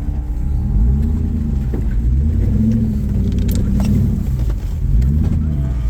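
Off-road Jeep engine running at low speed while crawling over rocks, its pitch rising and falling as the throttle is worked, with a few sharp knocks from the rocks or chassis.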